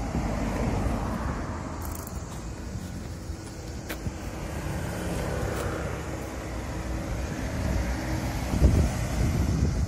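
Road traffic: cars passing on the street, their noise swelling and fading a few times. Near the end, low buffeting from wind on the microphone.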